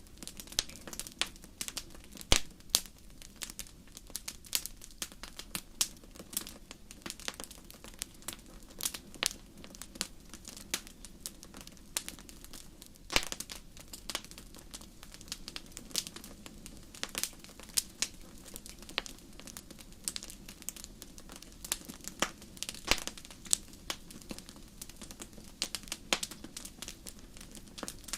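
Wood fire crackling in a fireplace: irregular sharp pops and snaps, several a second, over a low steady hiss and rumble of the burning logs.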